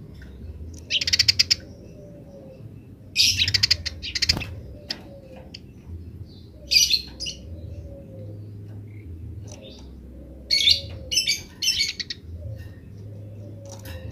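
Eurasian tree sparrows chattering: several short bursts of fast, repeated high chirps, with a low steady hum underneath.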